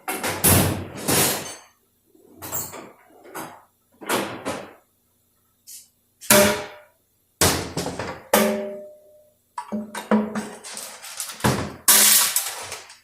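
Short bursts of an air ratchet spinning out the oil pan bolts on a Dodge 46RE automatic transmission, about a dozen in all, with metallic clinks and ringing as parts knock against the metal pan.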